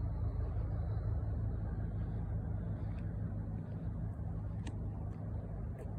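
A steady low mechanical drone with a few faint ticks.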